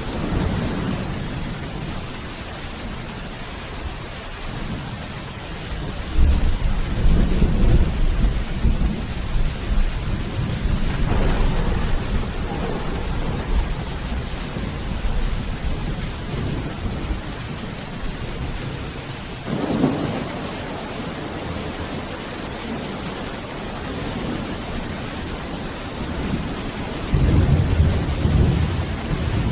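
Thunderstorm: steady heavy rain with rolling thunder. Deep rumbles build about six seconds in and again near the end, with sharper claps about eleven and twenty seconds in.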